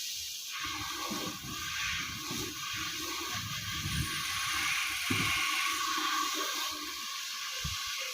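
Water running and splashing, with an irregular low rumbling that swells louder through the middle.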